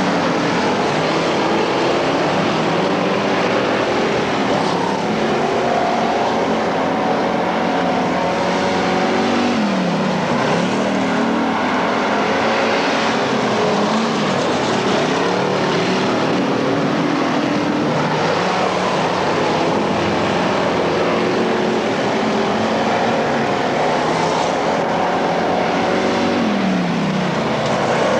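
Several dirt-track race car engines running at racing speed around the track. Twice a car passes close, its engine pitch dropping as it goes by.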